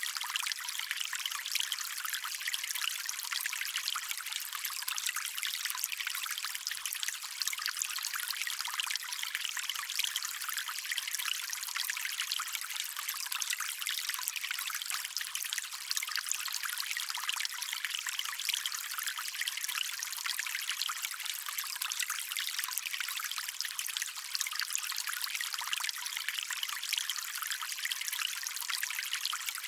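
Shallow stream water trickling and splashing over stones, a steady bright patter with no low rumble.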